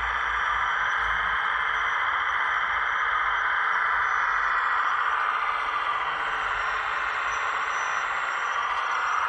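Hydraulic pump and drive motors of a 1/15-scale RC construction machine running steadily with a constant whine, easing slightly partway through.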